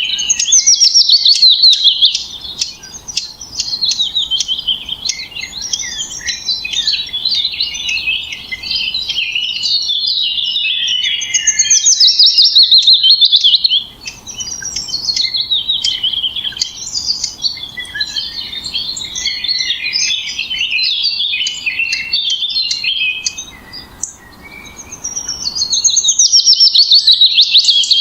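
Songbirds chirping and twittering without a break, with three loud bursts of rapid trilled notes: near the start, about halfway through, and near the end.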